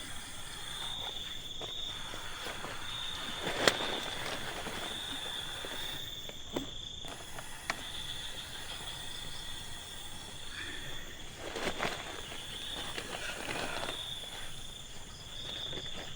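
Night insects chirring steadily in a high, slightly pulsing trill, with a few sharp clicks and rustles of movement close by. The loudest click comes about three and a half seconds in.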